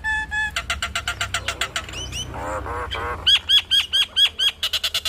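Nias hill myna singing a varied run of mimicked calls: three short whistled notes, quick strings of chirps, a lower burbling phrase, then a series of repeated sharp up-swept whistles about five a second, running into a fast trill near the end.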